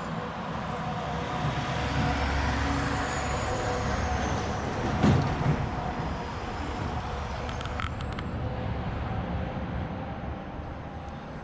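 Highway traffic passing, the tyre noise swelling and fading as vehicles go by, with a short knock about five seconds in.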